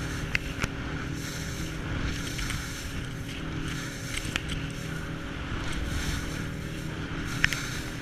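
Small boat's motor running steadily under way, with the rush of water and wind over it and a few light clicks.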